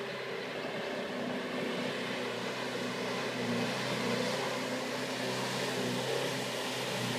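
Off-road vehicle engine running at a steady pitch, slowly growing louder.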